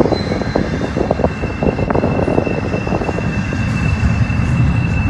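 Freight train cars rolling slowly past with clattering and knocking wheels over a low rumble, mixed with wind on the microphone. A steady high squeal from the wheels sets in about a second and a half in.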